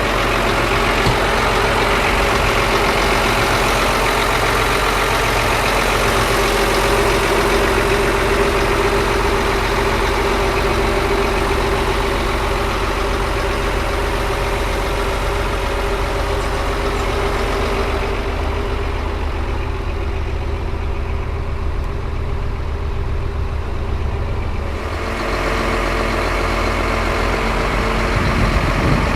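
Scania P114 340's 11-litre straight-six diesel engine running steadily at idle, with a steady whine over the engine note. The higher hiss drops away for several seconds past the middle, then returns.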